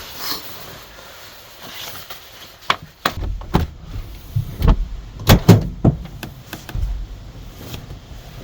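A dozen or so sharp knocks and clatters, as of things being handled, with a low wind rumble on the microphone from about three seconds in.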